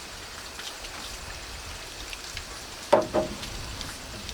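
Steady hiss of light rain, with one sharp knock about three seconds in.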